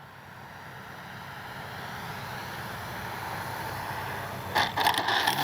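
Electric RC airplane with a brushless outrunner motor and a 13 x 6.5 propeller flying, its motor and propeller noise swelling steadily as it comes closer. A few sharp knocks sound near the end.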